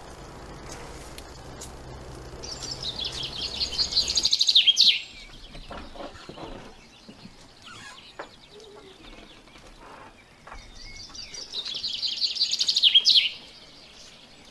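A bird singing two alike trilled phrases about eight seconds apart. Each is a run of rapid high notes that grows louder and ends in a quick falling flourish.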